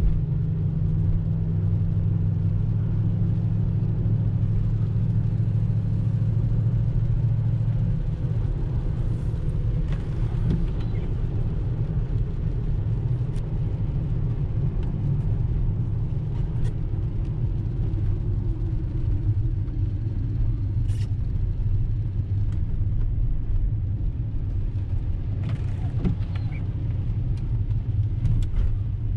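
V8 engine running with a deep, steady rumble, slightly changing in note about eight seconds in; a few faint clicks over it.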